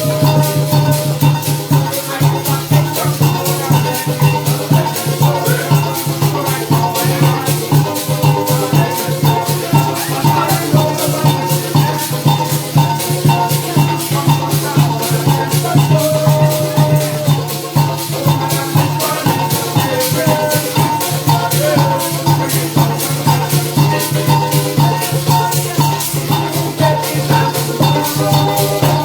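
Parang music played live: maracas shaking a fast, steady rhythm over a steady bass line, drum and moving melody lines from pitched instruments.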